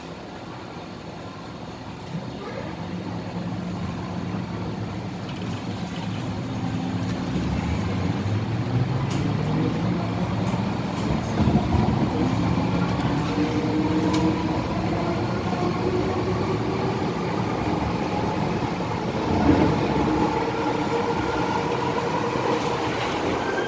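MTR M-Train electric multiple unit heard from inside the carriage as it pulls away from a station: the traction motor whine climbs steadily in pitch while the running noise grows louder as the train gathers speed.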